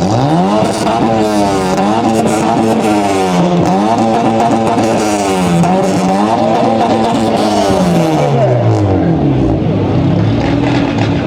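Modified car engine and exhaust revved hard for a loudness measurement. It climbs quickly, holds at high revs with two brief dips, then drops back toward idle near the end.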